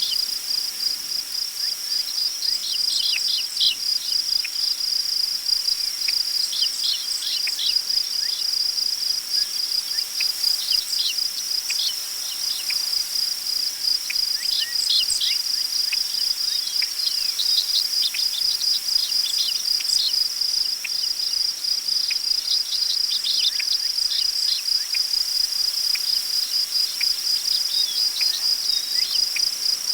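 A steady chorus of crickets trilling in a high, rapidly pulsing tone, with scattered short bird chirps over it. A faint wind hiss lies underneath.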